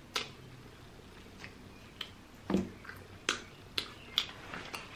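Close-miked wet mouth clicks and lip smacks from chewing rotisserie chicken: about eight sharp smacks, irregularly spaced, roughly one every half second.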